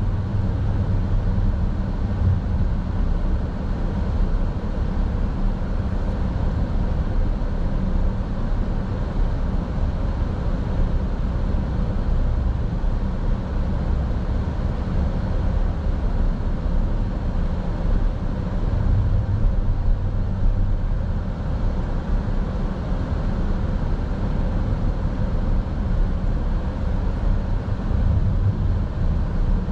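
Steady road noise of a car driving, heard from inside the cabin: a continuous low rumble of tyres and engine with no distinct events.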